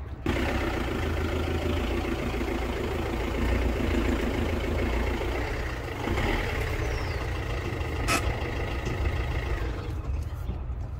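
Fiat 500L engine running, the car standing on a drive-on ramp. There is one sharp knock about eight seconds in.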